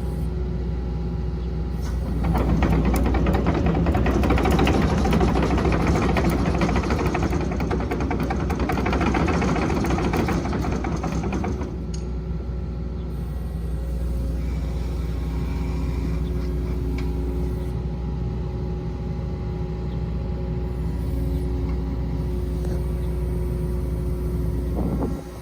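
Kobelco SK135SR-2 excavator's diesel engine running, louder and rougher for several seconds from about two seconds in, then settling back to a steady run.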